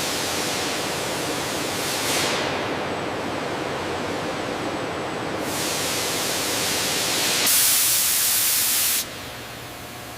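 A loud steady hiss that changes abruptly in tone several times, brightest about seven and a half seconds in, then drops sharply in level about nine seconds in.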